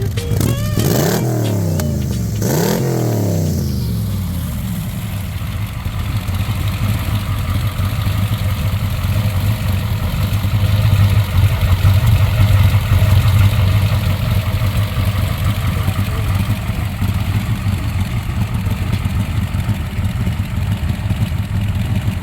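Car engine revved twice in quick succession, each rev rising and falling back within the first few seconds, then settling into a steady idle for the rest.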